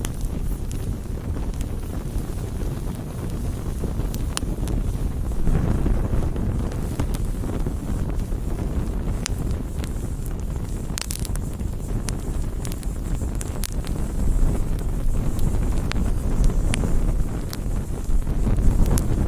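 Wood fire burning, a continuous low rumble broken by sharp crackles and pops of burning wood, the loudest pop about eleven seconds in.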